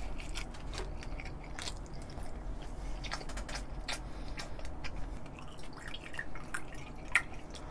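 Close-miked chewing of a mouthful of food: soft, wet clicking mouth sounds. Near the end, soju is poured from a glass bottle into a small glass, trickling and dripping.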